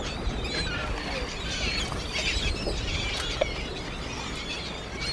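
A flock of seabirds calling as they feed over a school of fish: many short, high calls overlapping throughout, over a steady rumble of wind on the microphone.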